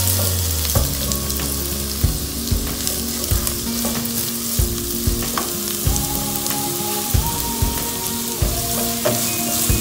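Sliced onions, garlic, ginger and chillies sizzling in hot oil in a non-stick pan, at the stage of being lightly sautéed until they change colour. A spatula stirs them, scraping and knocking against the pan every second or so.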